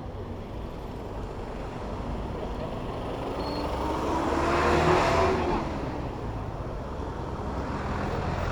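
A motor vehicle's engine rising in pitch and loudness as it passes close by, loudest about halfway through and then fading, over steady city traffic noise.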